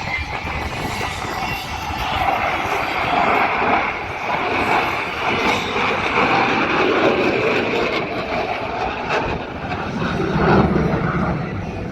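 Loud jet noise from an F-22 Raptor's twin F119 turbofan engines as the fighter flies overhead, a steady broad rush of sound that swells a couple of seconds in and is loudest near the end.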